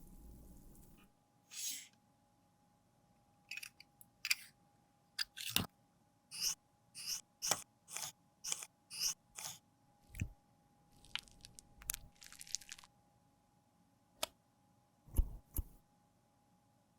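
Short, crisp crunching and scraping strokes of a tool working through a makeup product. They come in irregular clusters, with a steady run of about two strokes a second in the middle.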